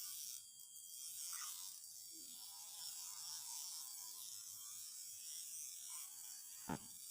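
Steady high-pitched buzzing of insects, with one sharp click near the end.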